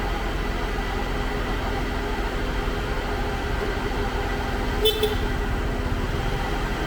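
Concrete pump truck's diesel engine running steadily, with a brief horn toot about five seconds in.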